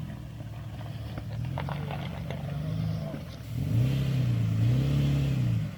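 2010 Toyota Tacoma pickup's engine working under throttle while crawling over rocks, its pitch wavering. Its note swells louder about two-thirds of the way through, then falls away just before the end. A few light knocks come through early on.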